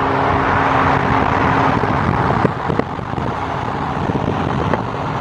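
A car on the move: steady engine and road noise, with a low steady hum that drops out about two seconds in, followed by a few light knocks.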